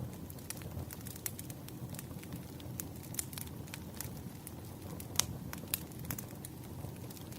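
Wood campfire crackling: a low, steady rush of burning logs under scattered sharp pops and snaps, the loudest about five seconds in.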